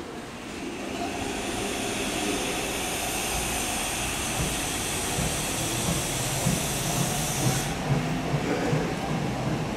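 Saitama Railway 2000-series electric train running on the track: a rumble with irregular knocks builds up, under a high hiss that stops suddenly near the end.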